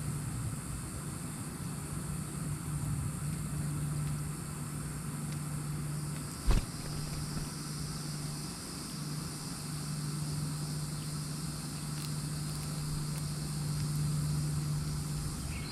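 Steady low mechanical hum, like an engine or motor running, over a background hiss, with one sharp knock about six and a half seconds in.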